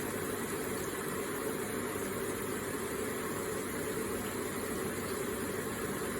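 Electric water feature running: a steady, even rush of falling water.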